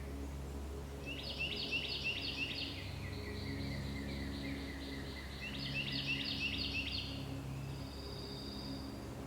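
A songbird singing two phrases of quick repeated high notes joined by a lower trill, then a thin high note near the end, over a steady low hum.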